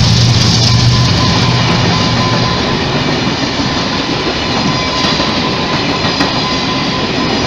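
Train running on the track, a loud, steady rumble of wheels and cars that slowly eases. A low pitched drone from the train dies away in the first couple of seconds.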